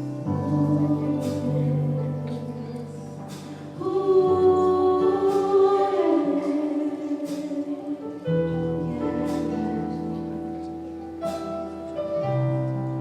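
Slow song with sustained chords and choir-like singing. About four seconds in, a voice holds a long wavering note.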